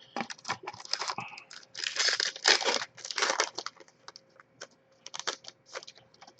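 A trading card pack wrapper being torn open and crinkled, with scattered clicks and rustles of cards being handled. The loudest tearing and crackling comes in a cluster from about two to three and a half seconds in.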